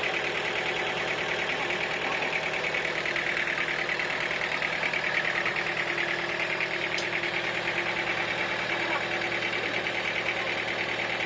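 Sawmill machinery's engine running steadily with a fast, even pulsing.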